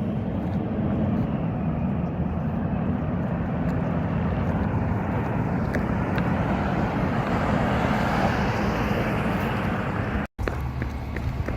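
Recycling truck's engine running steadily, the noise swelling a little midway. The sound drops out for a moment near the end, then carries on.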